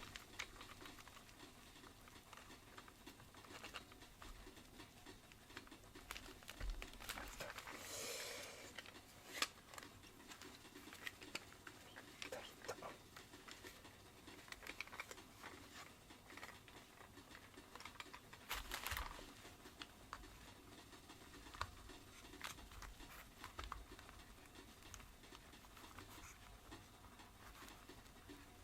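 Faint handling noises of vacuum cleaner parts being fitted together: scattered light clicks, taps and scrapes, with two short rustling sounds, one about a third of the way in and one about two thirds in.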